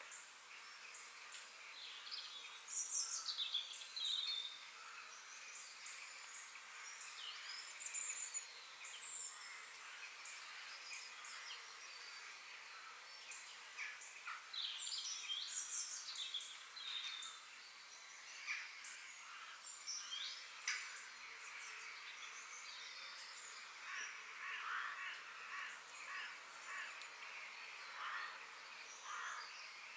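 Several birds chirping and calling in outdoor ambience: quick high notes, many sweeping down in pitch, over a steady soft hiss.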